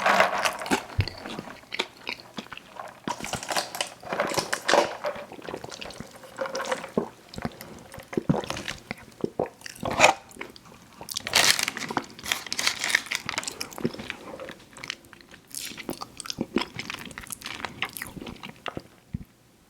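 Close-miked eating sounds: crunchy bites and chewing, crisp crackling from the food, in an irregular run that stops just before the end.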